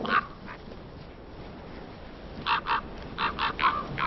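Common ravens calling with short, harsh croaks: one or two at the start, then after a pause a quick run of about six.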